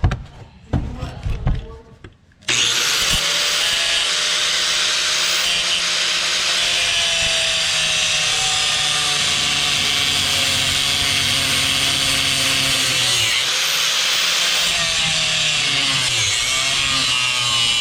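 Angle grinder cutting the heads off worn steel pins of a manure spreader chain: a few knocks, then the grinder spins up with a rising whine and cuts steadily, its pitch sagging and recovering once near the end.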